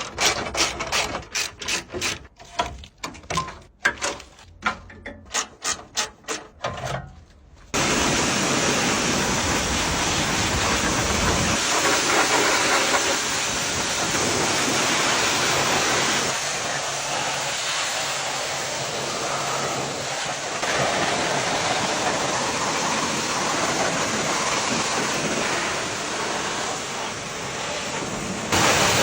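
A quick run of sharp clicks and knocks, then, about eight seconds in, a high-pressure water spray starts suddenly as a steady, even hiss and keeps running.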